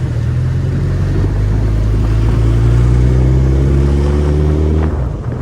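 Suzuki Hayabusa's inline-four engine running under throttle, its pitch climbing slowly for a couple of seconds, then dropping away sharply as the throttle closes near the end.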